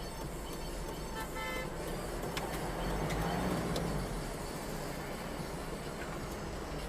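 Road traffic noise with a short car horn toot about a second and a half in, then a louder rush of road noise around three seconds in.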